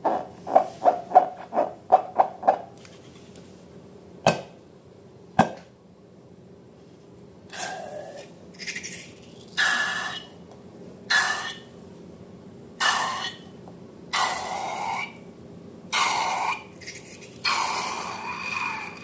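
Hands working balloons and slime: a quick run of short squeaky strokes, two sharp snaps, then a slower series of half-second to one-second rubbing, squishing strokes about every one and a half seconds.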